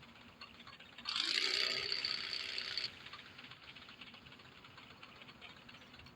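A motorcycle engine revs briefly about a second in, rising in pitch, then runs with a loud rattling buzz for about two seconds before dropping back to a faint ticking rattle.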